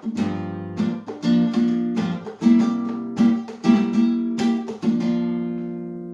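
Acoustic guitar strummed in a rhythmic chord pattern, with no singing; about five seconds in, the last chord is left to ring out and fade.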